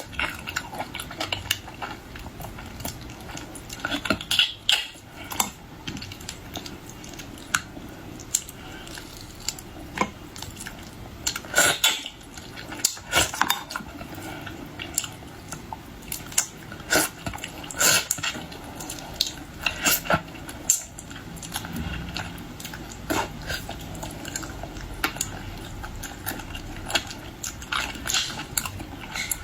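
Irregular sharp clicks, taps and clinks of tableware and shellfish shells being handled during a seafood meal.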